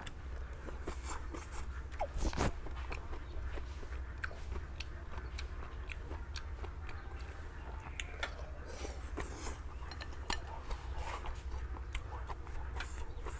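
Close-up chewing and crunching of fried bamboo shoots, picked up by a clip-on microphone: many small crisp clicks over a steady low hum, with one louder crunch about two seconds in.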